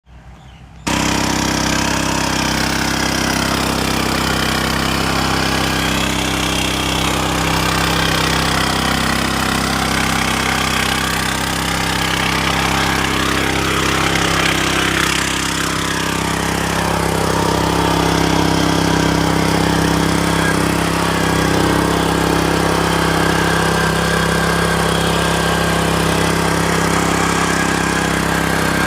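Small engine of a mini rotavator running steadily, starting abruptly about a second in.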